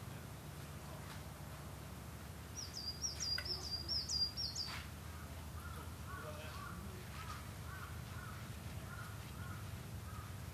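A small songbird sings a quick run of high repeated notes about three seconds in, the loudest sound here. Fainter, lower repeated calls follow from another bird, over a steady low rumble of wind.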